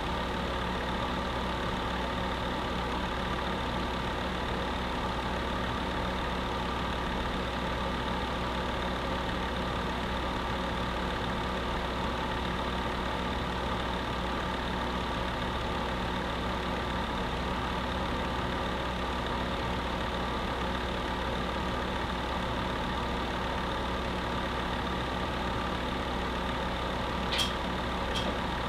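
Electric space heater running: a steady hum with a few faint steady tones in it. Two short clicks about a second apart near the end.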